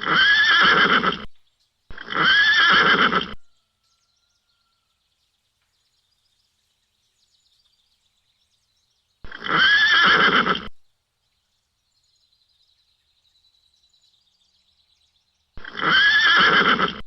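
A pony whinnying four times, the same call repeated, each about a second and a half long, with long gaps between the later calls.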